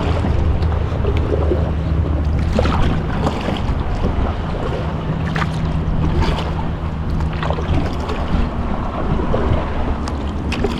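Wind buffeting the microphone in a low, steady rumble, with a faint low hum underneath and a few light knocks scattered through.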